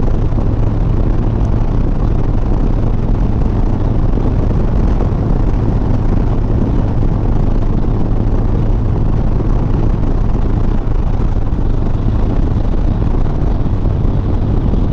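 Harley-Davidson Softail Sport Glide's V-twin engine running steadily at cruising speed, mixed with wind and road noise.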